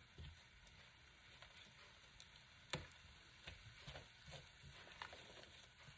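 Faint sizzling of a biryani masala, butter and onion mixture in a pan as it is stirred to dissolve the spice mix, with a utensil knocking against the pan a few times, sharpest about halfway through.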